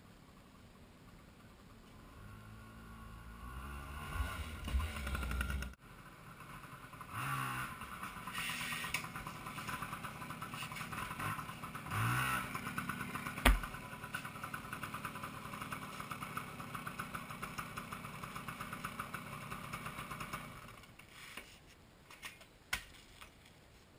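Yamaha PW80 pit bike's small two-stroke single-cylinder engine being ridden: it builds up after a couple of seconds and revs up and down several times. A sharp click comes about halfway through. The engine then runs steadily before fading out near the end.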